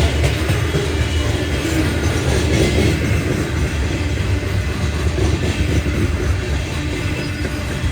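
Freight train rolling past: a steady rumble of wheels on rail, with faint repeated clacks from the cars.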